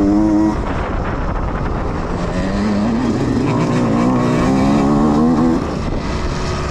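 Youth dirt bike engines revving as the bikes ride past: one engine's note climbs and drops away about half a second in, and another climbs steadily from about two and a half seconds to five and a half seconds.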